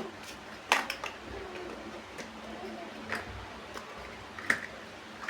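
Plastic toy building bricks clicking as they are handled and pressed together: a few separate sharp clicks, the loudest about three-quarters of a second in.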